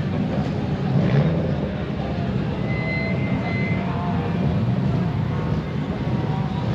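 Several cars' engines running together at idle, a steady low rumble.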